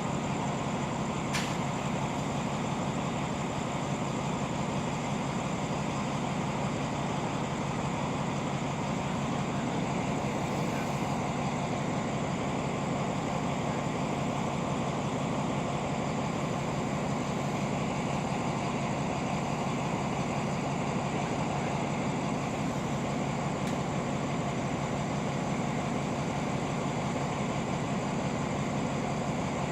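Diesel locomotive idling steadily while its train stands at the platform, a constant low engine drone with no change in speed.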